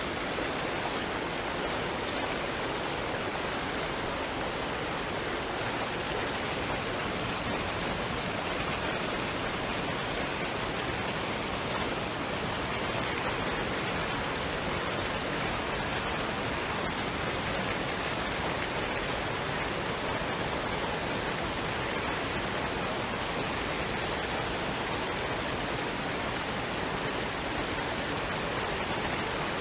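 Waterfall and stream water running: a steady, even rushing with no breaks.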